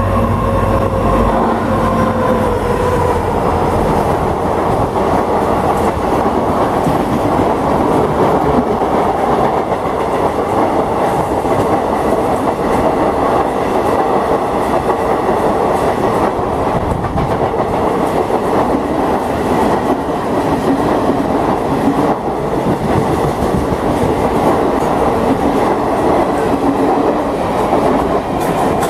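WDP4 diesel locomotive passing close at speed, its engine and a pair of tones falling slightly in pitch in the first few seconds, followed by a long rake of passenger coaches rushing by with steady wheel rumble and clickety-clack over the rail joints.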